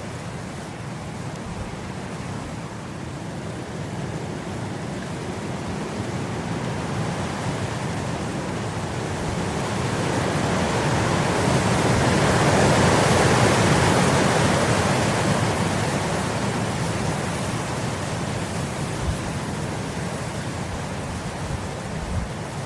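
Wind blowing through grass: a steady rushing that builds to a stronger gust about halfway through, then eases off again.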